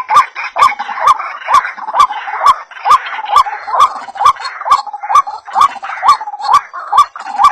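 White-breasted waterhen (ruak-ruak) calling in a fast, unbroken series of short upward-hooked notes, a little over two a second, each with a sharp click. It is a bird-trapper's lure recording.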